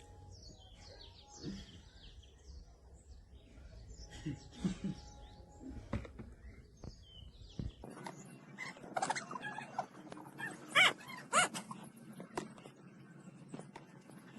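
A dog making short high-pitched calls, clustered from about nine to eleven and a half seconds in.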